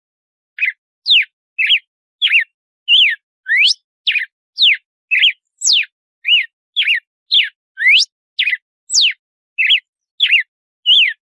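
Red-cowled cardinal (galo-de-campina) singing its 'açoite' song: a steady run of clear whistled notes, about two a second, each sweeping sharply down or up in pitch.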